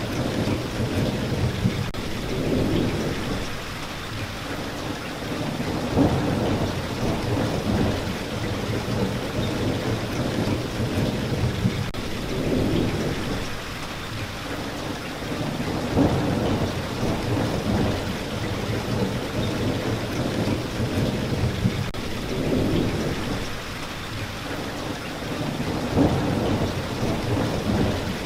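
Steady rain falling, with low rumbles of thunder rolling in and fading away several times.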